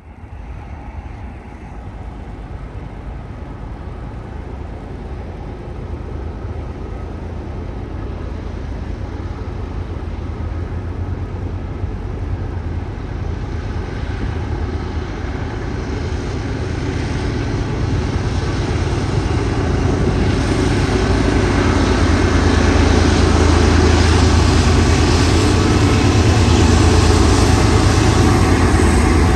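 Diesel locomotives of a BNSF intermodal stack train climbing Cajon Pass eastbound: a deep, steady engine drone that grows gradually louder as the train approaches.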